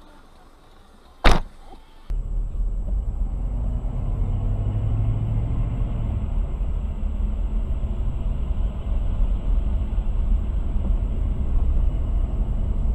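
A single sharp bang about a second in, then a steady low rumble of a car driving on the road.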